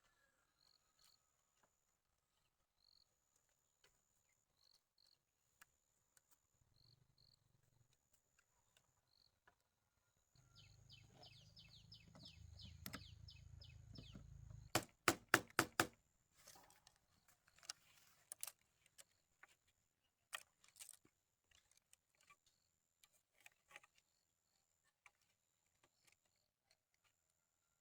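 Insects trilling in short repeated pulses, a high faint chirping. A low hum with rapid ticking runs for a few seconds, then comes a quick run of five sharp knocks about fifteen seconds in, followed by scattered clicks.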